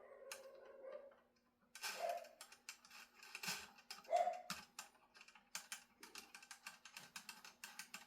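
Puppies moving about: a rapid, irregular run of light clicks and taps, with a few short whimpers.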